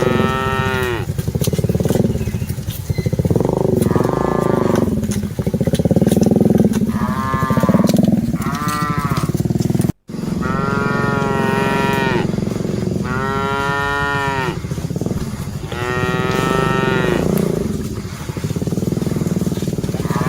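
A herd of cattle mooing: about eight long calls, one after another, some higher and some deeper, over a steady low rumble. The sound cuts out for an instant about halfway through.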